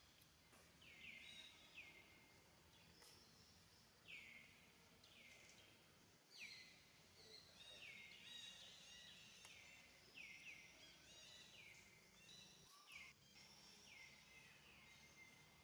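Faint bird calls: a long series of short, high chirps, each dropping in pitch, repeated every half-second to a second, over a low steady hum.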